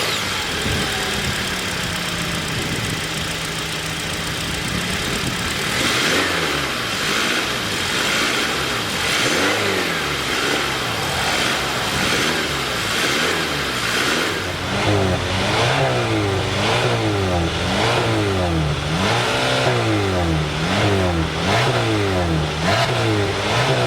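2022 Hyundai Tucson's 2.5-litre inline-four petrol engine idling steadily, then revved repeatedly in free blips, rising and falling in pitch, coming quicker and closer together in the second half.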